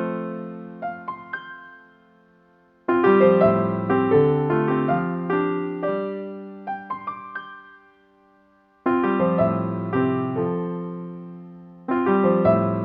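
Piano music in short phrases of several notes, each starting suddenly and dying away, with brief pauses between phrases.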